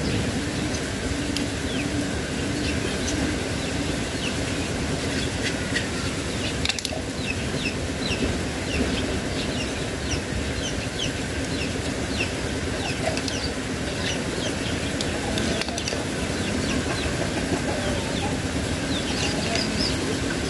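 Many short, high bird chirps over a steady low background hum, with one light knock about a third of the way in.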